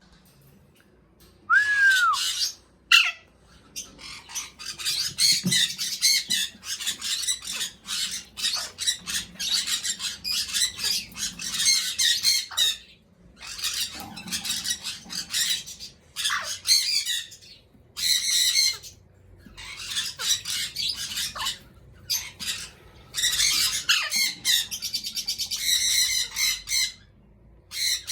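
Pet parrots squawking in long runs of harsh, high-pitched screeches broken by short pauses, with a couple of whistled, arching calls near the start.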